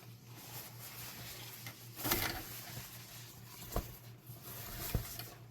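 Faint rustling and handling noise in a small closet, with a few sharp clicks. The loudest click, with a brief rustle, comes about two seconds in, and two more follow near the end, over a steady low hum.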